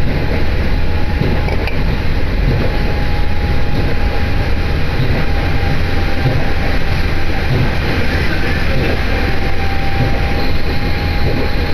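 Running noise heard inside a diesel train on the move: a steady low rumble of engine and wheels on the rails, with a thin steady whine above it.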